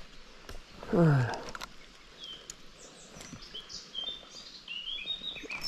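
Small birds chirping in short, high notes, most of them in the second half, over a steady background hiss. A person makes one brief voiced sound about a second in, the loudest thing here.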